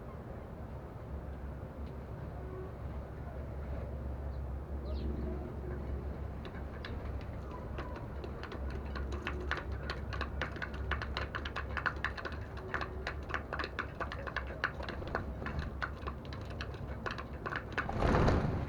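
Sparrows pecking seed from a feeding plate: rapid, irregular clicks that begin a few seconds in and grow dense, over a low steady hum. A short, loud rush of noise comes near the end.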